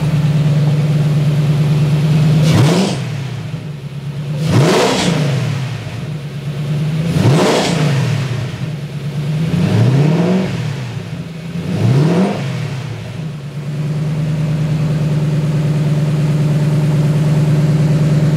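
V8 engine in a Porsche 986 Boxster idling steadily, then blipped five times in quick succession, each rev rising sharply and dropping straight back to idle, before settling at idle again. The drive belt slips when the throttle is blipped.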